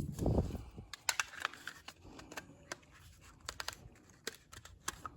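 A low thump, then a run of scattered light clicks and scrapes, like small objects or tools being handled.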